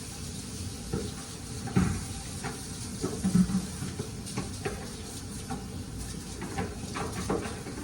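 Drained meat sizzling in a hot skillet while a spoon scrapes and knocks against the pan, with about eight irregular clinks, the loudest about three and a half seconds in.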